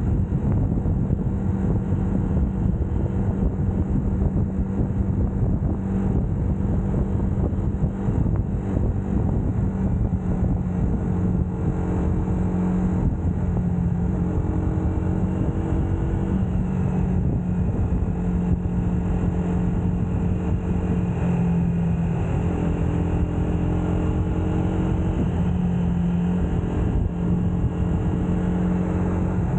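UM Scrambler X motorcycle engine running at riding speed, its pitch shifting up and down several times with the throttle, over steady wind rumble on the microphone.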